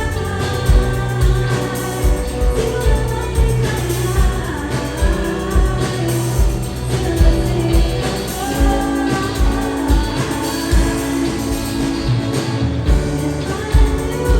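Live band playing a pop song: a singer's melody over bass, guitar and a drum kit keeping a steady beat.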